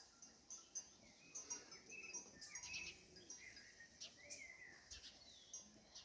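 Faint songbirds singing: a scatter of short high chirps mixed with brief whistles that rise and fall in pitch.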